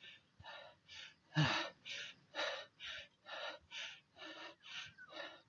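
A cyclist panting hard from the effort of pedalling up a steep climb: quick, even breaths about two to three a second, with one louder, voiced breath about a second and a half in.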